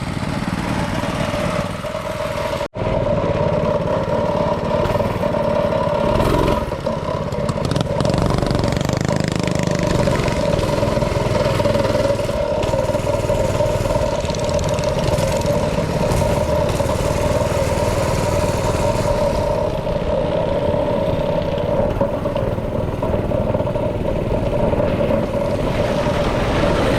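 Engine running at a steady high speed, holding an even, unbroken drone.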